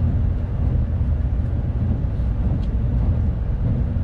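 Tokaido Shinkansen Kodama train running, heard inside the passenger car: a steady low rumble with a faint hum.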